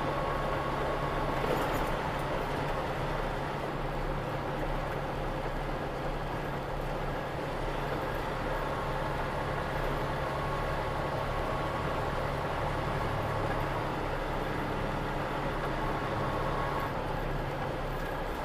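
Steady driving noise from a moving vehicle: an even engine hum under road noise, starting abruptly and holding level throughout.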